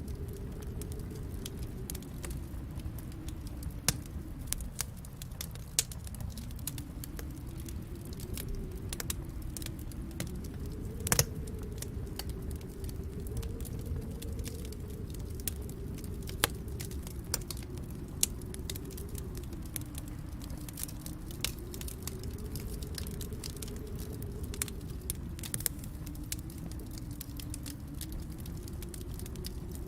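Wood fire crackling, with irregular sharp pops, one loudest about eleven seconds in, over a steady low rumble whose pitch slowly rises and falls.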